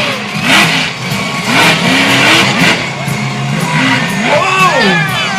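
Monster truck engine revving up and down in repeated bursts, with music playing underneath.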